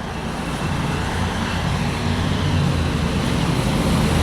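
An engine running steadily, a low drone under a broad rushing noise that slowly grows louder.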